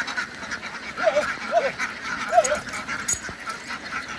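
A large flock of ducks quacking and chattering without a break, with three short, lower calls standing out about a second, a second and a half and two and a half seconds in.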